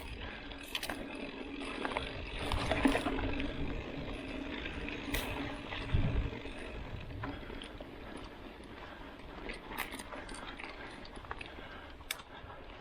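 Mountain bike rolling over a dirt track: steady tyre and ground noise with scattered sharp clicks and rattles from the bike, and a couple of heavier thumps about three and six seconds in.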